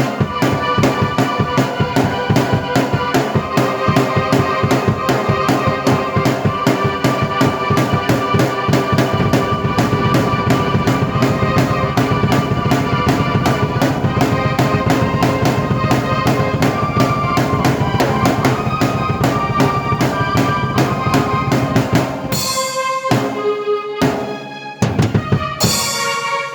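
Drum kit and keyboard played together by one player: fast, steady drumming with kick and snare under held keyboard chords. About 22 seconds in, the steady beat breaks off into a few separate accented hits while the keyboard chords ring on.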